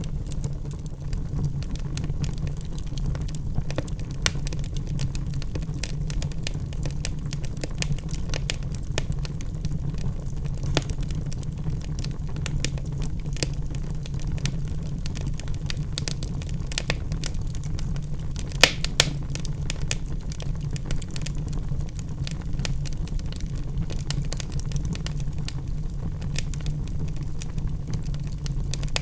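Wood fire burning in a fireplace: logs crackling and popping over a steady low rumble of the flames, with two louder pops about two-thirds of the way through.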